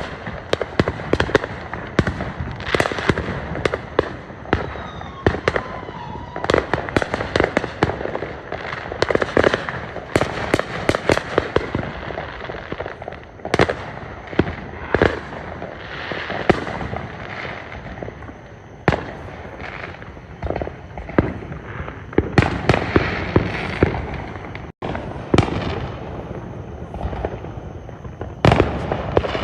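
Fireworks going off in quick succession: a dense, irregular run of bangs and crackles from shells bursting, with no let-up.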